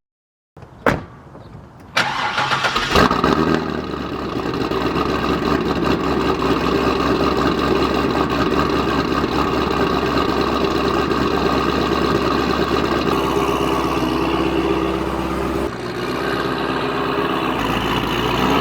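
Corvette V8 engine cranked and firing about two seconds in, then running at a steady idle, with the idle note shifting slightly a few seconds before the end.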